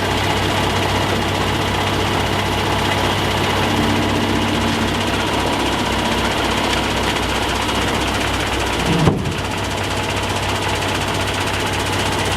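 Kenworth T880 truck's diesel engine idling steadily with an even low pulse, and a brief thump about nine seconds in.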